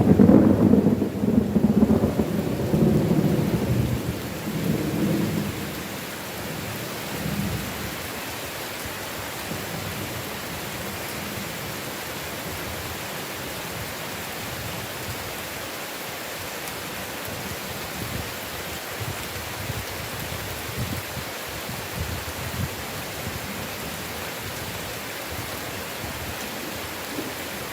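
Thunderstorm: a loud low roll of thunder at the start fades away over the first several seconds. Heavy rain keeps up a steady hiss after it.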